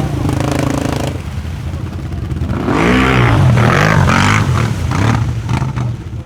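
4x4 ATV engine running under load and revving, its pitch swinging up and down several times from about three seconds in, with clatter on top.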